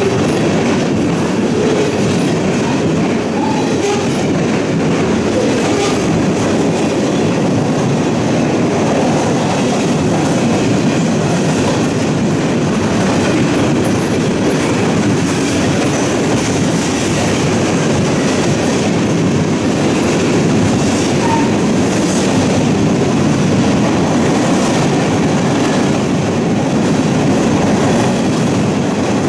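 A train rolling steadily past close by, its wheels running loud and even on the rails.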